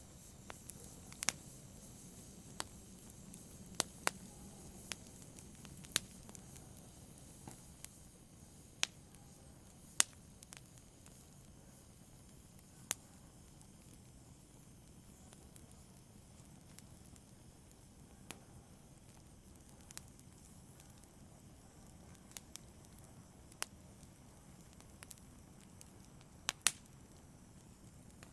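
Wood fire burning in a fireplace: a soft steady rush of flames with irregular sharp crackles and pops, a few louder snaps scattered through.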